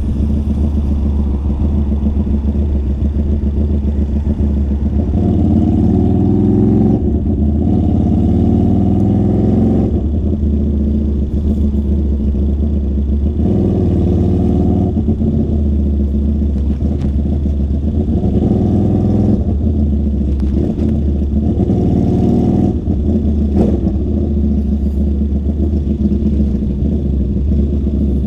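QJMotor SRV250's V-twin engine running through a custom-built two-into-one exhaust while riding, its note rising and falling with the throttle several times. Heard muffled from inside the rider's bag.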